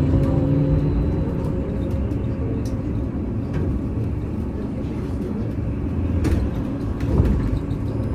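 VMZ Avangard trolleybus heard from inside while moving: steady electric drive hum and road rumble with a thin high whine. A couple of sharp knocks come near the end.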